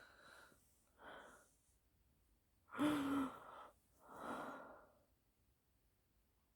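A person's breathy sighs and gasps: four short breaths, the third, about three seconds in, the loudest, with a brief voiced hum.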